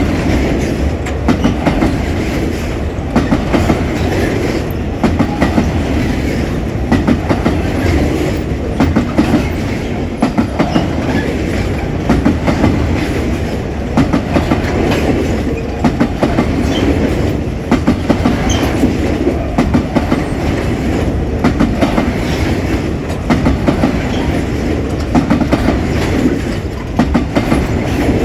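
Empty pulp wagons of a broad-gauge freight train rolling past at speed. The wheels clack over a rail joint in tight clusters of about four clicks, repeating roughly every two seconds over a steady rumble.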